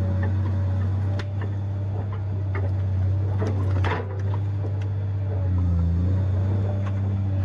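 Tigercat 870C feller buncher's diesel engine running under load with a steady low hum, dipping briefly about halfway through and then swelling again. Several sharp cracks and knocks come over it.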